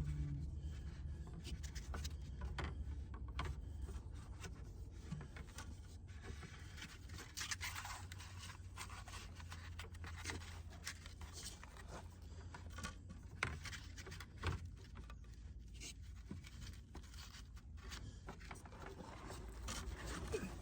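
Irregular scraping, rubbing and rustling with scattered small knocks, the sounds of a person shifting about and handling things in a cramped crawl space, over a steady low hum.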